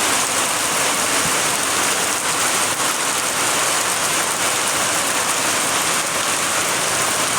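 Heavy rain falling and pattering on surfaces, a steady loud hiss.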